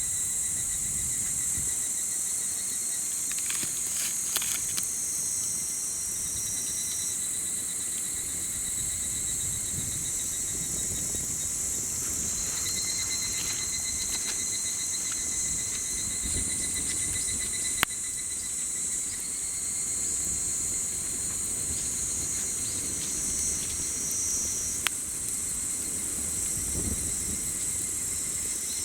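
A steady chorus of insects singing: a dense high-pitched buzz with a pulsing trill underneath. A campfire burns beneath it, giving a few sharp pops, the loudest about 18 seconds in.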